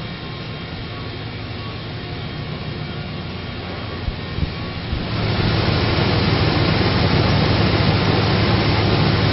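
The 2002 Dodge Ram 1500's 5.9-litre V8 running at a steady idle with a low hum, a couple of light knocks about four seconds in, then getting louder about five seconds in.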